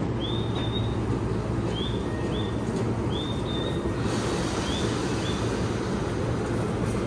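Steady low rumble of an electric commuter train standing at the platform, with about seven short rising bird chirps over the first five seconds. A faint hiss joins about four seconds in.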